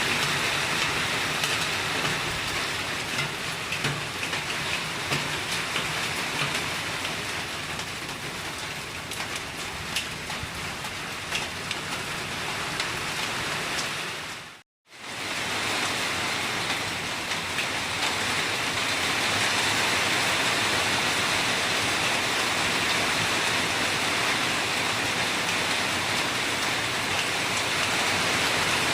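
Heavy rain falling steadily: a dense hiss of rain with scattered individual drop ticks. The sound cuts out for a moment about halfway through and then comes straight back.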